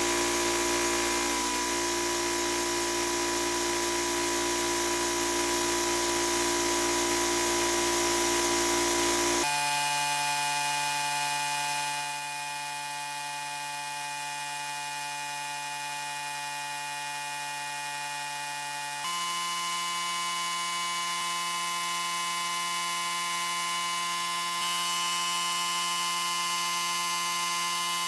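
An electric power tool running steadily with a whining hum. The pitch and character change abruptly twice, about a third and two thirds of the way through.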